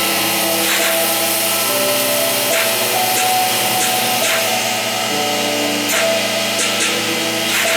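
Homemade CNC milling machine running: its motors whine in steady tones that jump to a new pitch every second or so as the axes move, over a steady cutting noise, with a few short clicks.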